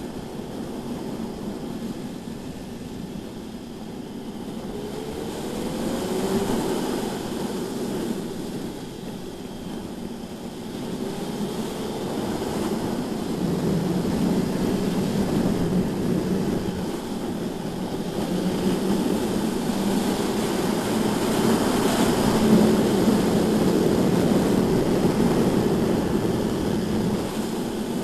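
BMW S1000RR sport bike's inline-four engine running at speed under a steady rush of wind noise, its pitch rising as it accelerates about five and eleven seconds in, and growing louder toward the end.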